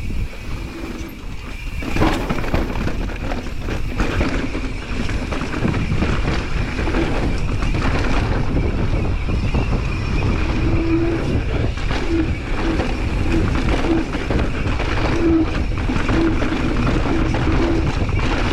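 Steady wind buffeting the microphone with a low rumble, overlaid by a continuous high buzz and short repeated higher tones.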